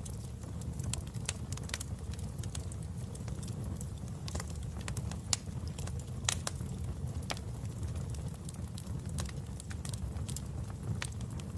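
Wood fire crackling in a fireplace: scattered, irregular sharp pops over a steady low rumble, with two louder pops a little past the middle.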